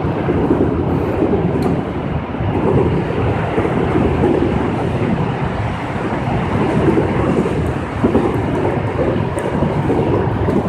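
Heavy rain pouring, a dense steady rushing noise that swells and eases a little, with a few faint ticks of drops.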